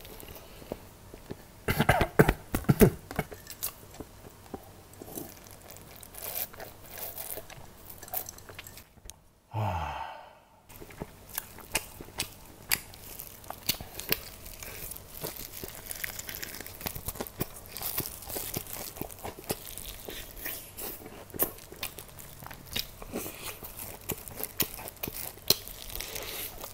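Close-miked crunching and chewing of crispy-coated fried chicken, with the loudest bites about two seconds in. About ten seconds in there is one short sound that falls in pitch.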